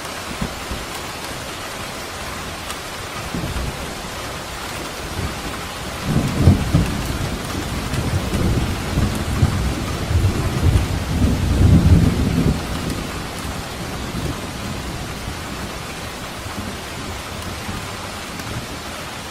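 Steady rain falling, with a rolling rumble of thunder that builds about six seconds in, peaks around twelve seconds and fades away by about fourteen.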